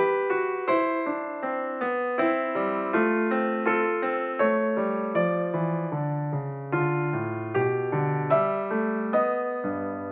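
Background solo piano music, notes struck at an even, unhurried pace.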